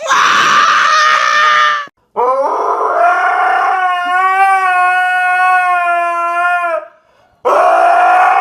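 A husky howling: one long howl from about two seconds in to about seven seconds, rising at first and then held at a steady pitch. Shorter loud dog calls come before it and again near the end.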